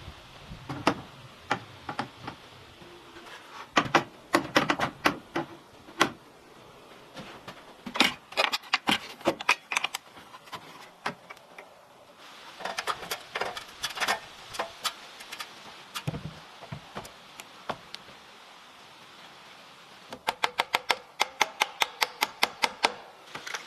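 Knife chopping on a cutting board in bursts of sharp knocks, ending in a fast even run of about six strokes a second.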